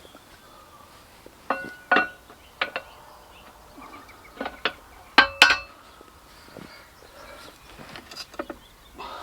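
Sharp metallic clinks of steel being struck, each ringing briefly, coming in irregular pairs, the loudest about five seconds in. Faint bird chirps underneath.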